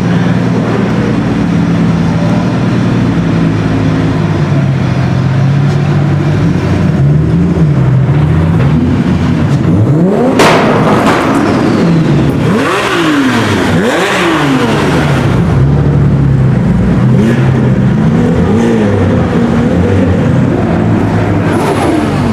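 Sports-car engines running at low speed, then revved: about halfway through the engine pitch climbs and falls several times in quick throttle blips, with one sharp crack as the first rev rises.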